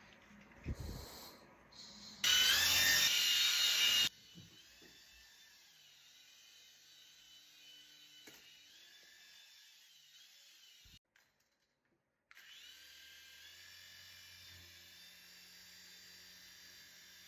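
Overvolted toy parrot giving out a high-pitched electronic whine. A loud burst of about two seconds comes first, then a quieter steady whine of several wavering tones that cuts out briefly about eleven seconds in and starts again.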